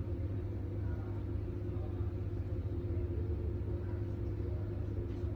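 Steady low mechanical hum that runs evenly, with no distinct events.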